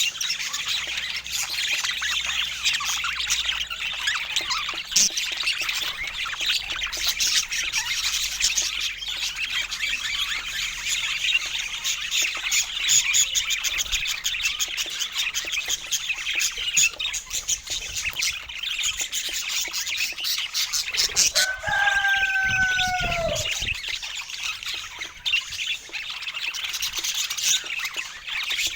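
A flock of budgies chirping and warbling in a steady, busy chatter. About twenty seconds in, a louder, lower, falling call stands out for about two seconds.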